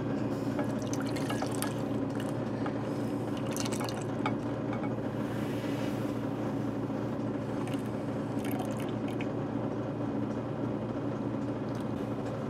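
Buttermilk being poured off freshly churned butter, with liquid trickling and dripping, over a steady low hum.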